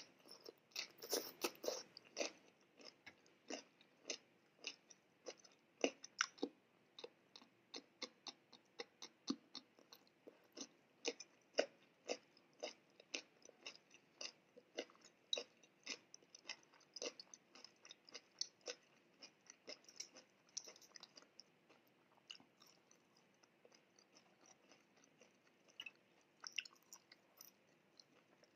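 Quiet, close-miked chewing of a mouthful of sweet corn kernels: a steady run of small crunches and wet mouth clicks, a few a second, thinning out for a while near the end.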